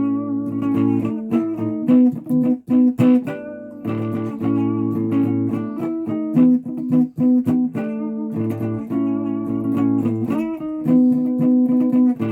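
A guitar being played: picked notes and chords that ring on, with a low bass note sounding under some passages.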